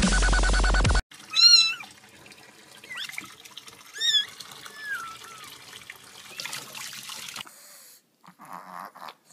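A cat meowing several times: a loud meow about a second and a half in, another about four seconds in, and softer gliding mews between, over a faint steady hiss of running water. Loud electronic dance music cuts off suddenly about a second in.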